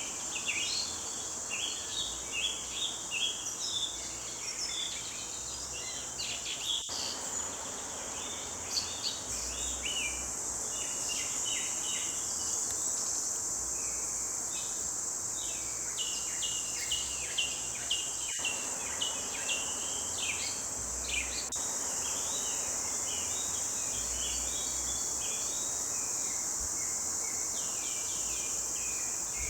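Several songbirds singing in a dawn chorus, with quick repeated chirps and trills, over a steady high-pitched insect drone.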